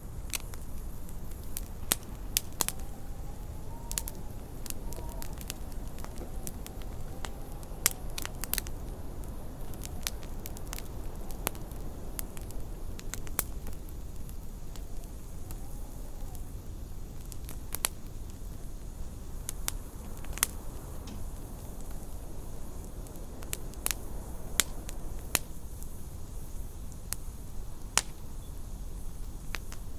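Wood fire crackling, with irregular sharp pops over a steady low rumble. Faint wavering howls of wind come and go a few times.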